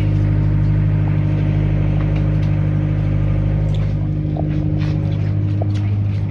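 D class diesel locomotive engine running with a steady low drone.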